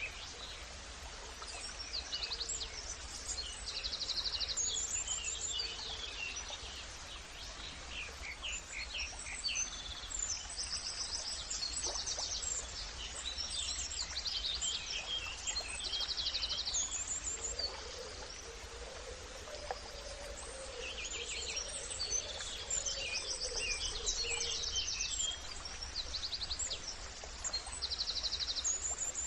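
Several songbirds chirping and trilling at once, overlapping short calls and fast buzzy trills, over a steady low background rumble.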